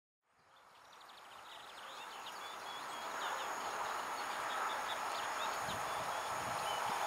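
A distant train approaching along the line, its noise growing steadily louder, with small birds chirping over it. The sound fades in from silence just after the start.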